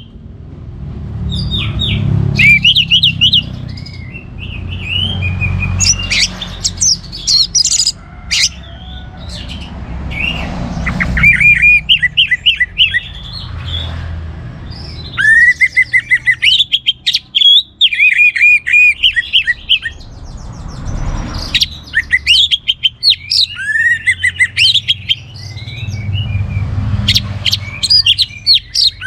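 Orange-headed thrush (anis merah) singing in full song: phrase after phrase of quick, sliding high whistled notes with short pauses between them, over a low background rumble.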